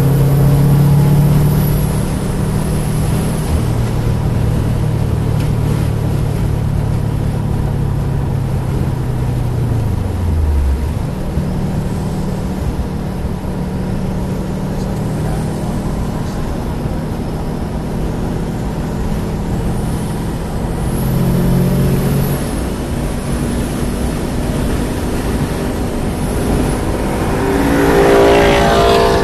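Car engine heard from inside the cabin at track speed, over steady road and wind noise. Its pitch drops about ten seconds in as the car slows for a corner, runs lower and steady through the bend, then climbs sharply near the end under hard acceleration.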